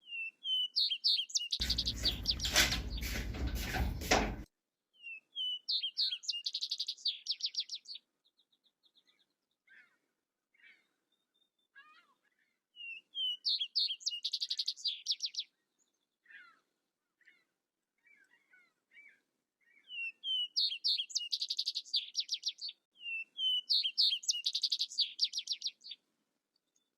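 A songbird singing the same short phrase over and over, a few high notes running into a fast trill, repeated every few seconds. About two seconds in, a loud rushing noise covers everything for roughly three seconds.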